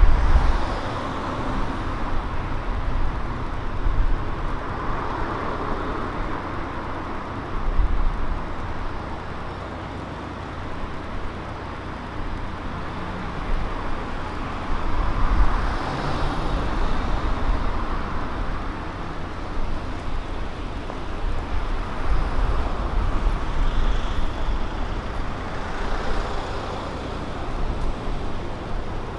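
Road traffic on a city street: cars and other vehicles passing one after another, each swelling and fading away, over a steady low rumble.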